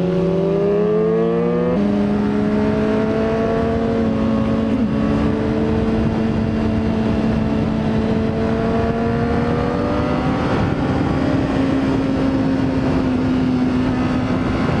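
Sport motorbike engine, a Honda CBR600RR inline-four, running under way at a steady pace. Its note shifts about two seconds in, then rises slowly and eases off near the end, with wind and road noise throughout.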